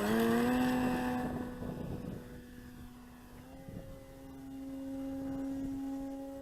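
FLEX Innovations Cessna 170 radio-controlled model plane's electric motor and propeller. The pitch rises as the throttle comes up, then settles into a steady whine that fades and swells again as the plane flies around.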